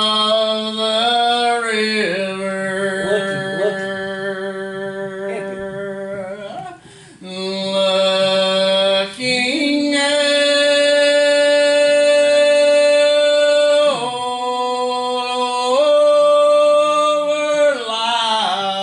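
A man singing a slow gospel hymn in long, drawn-out notes, with a brief break for breath about seven seconds in.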